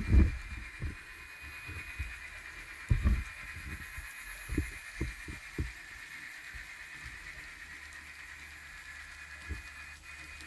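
Model train running on a layout: a steady high-pitched motor whine over a low hum, with irregular low thumps, most of them in the first half.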